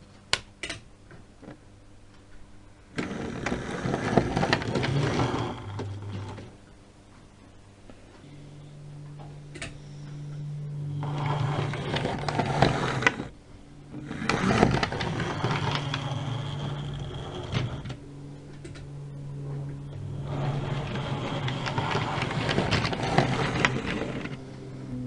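Model train running on its track: a steady motor hum under a rattle of wheels on rail, swelling and fading several times as it passes. A few sharp clicks come near the start.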